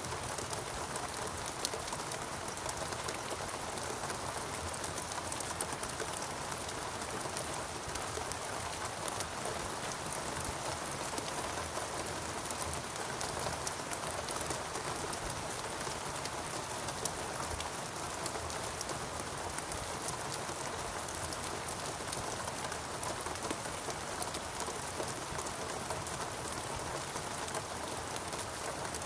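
Steady rainfall on foliage and ground, an even hiss with many fine drop patters throughout.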